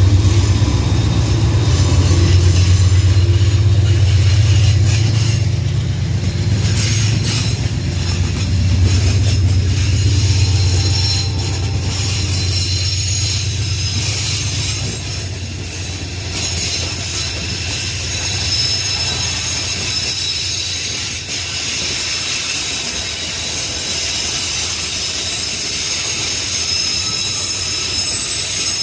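Loaded pig-iron freight wagons rolling past with their wheels squealing in high, steady tones. A low diesel engine drone fades out over the first ten seconds or so.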